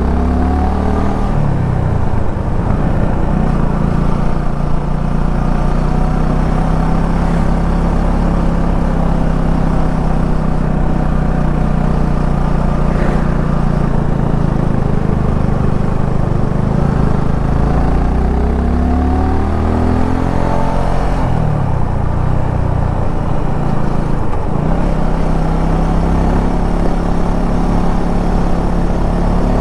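Suzuki V-Strom 250 SX's single-cylinder engine running under way, holding a steady pitch for long stretches. Its pitch rises and falls about two seconds in, again around eighteen to twenty-one seconds in, and dips briefly near twenty-four seconds in, as the engine revs up and down.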